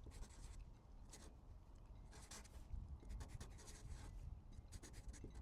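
Faint, irregular scratching strokes of a pen on paper as a diagram is drawn.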